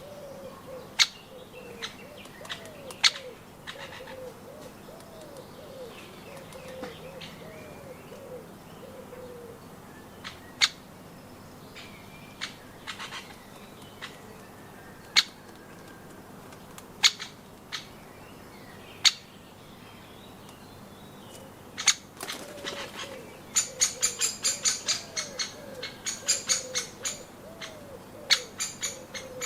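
A woodpecker pecking at nuts or wood: sharp single knocks every few seconds, then a quick run of hammering at about five knocks a second near the end. Repeated low cooing of a dove or pigeon in the background, through the first third and again near the end.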